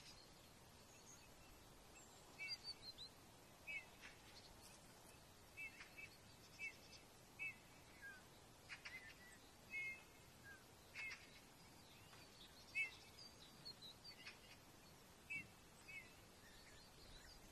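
Birds calling: short, scattered chirps, some in quick pairs or threes, over a faint steady hiss.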